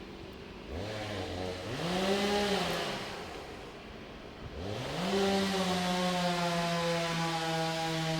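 Two-stroke chainsaw engine. It starts low, revs up and drops back once, then revs again and holds a steady high speed to the end.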